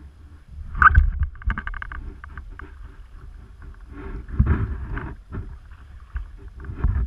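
Wind buffeting the microphone over a low rumble, with water sloshing and knocking against a fishing kayak's hull and scattered rattles of gear on board. The knocks and rattles are loudest about a second in and again near the middle.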